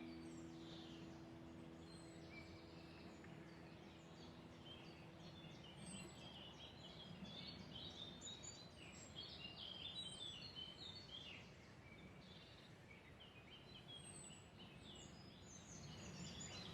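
Faint chorus of several songbirds: many short chirps, trills and whistles overlapping. A held music chord fades out in the first few seconds.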